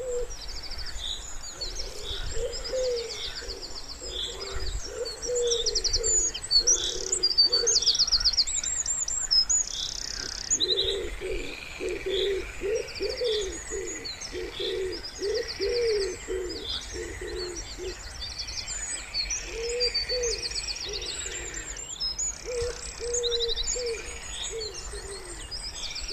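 Common wood pigeon cooing in several repeated phrases of low notes, with small songbirds chirping and trilling high above it throughout.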